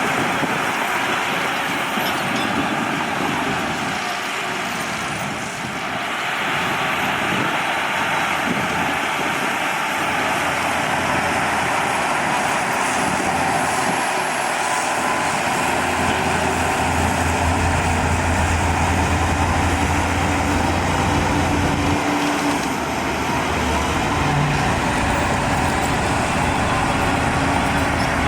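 Heavy diesel earthmoving machinery running steadily, with a deep engine drone that grows stronger for about six seconds past the middle, as if the machine is working under load.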